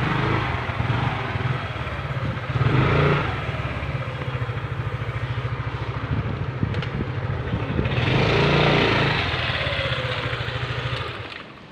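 Motorcycle engine idling with a steady low pulsing note, swelling louder twice, then cutting off about eleven seconds in as the engine is switched off.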